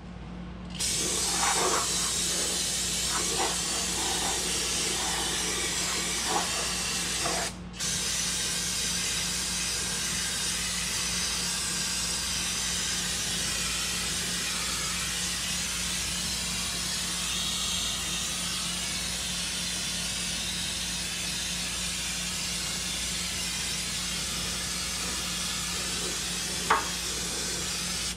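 Aerosol brake cleaner spraying in a long continuous hiss, stopping briefly once about seven and a half seconds in, with a few light knocks in the first several seconds and a sharp click near the end.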